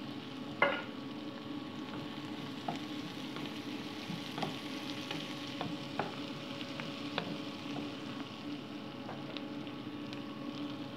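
Chopped onion and garlic frying in a pan: a steady sizzle with scattered small pops and ticks as they are stirred with a wooden spoon.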